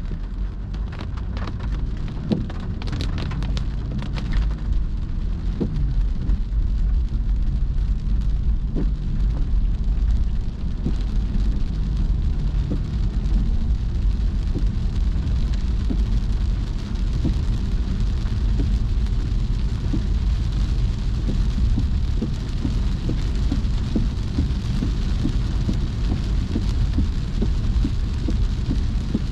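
Heavy rain falling on a car, with scattered drops ticking on the glass and roof over a steady low rumble of the car.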